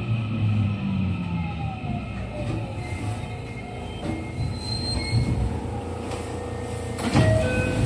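JR West 207 series electric train running from inside the car as it slows for a stop. The whine of its original, unchanged traction motors falls in pitch over the first two seconds, then holds steady, with sharp noises near the end as the train nears a standstill.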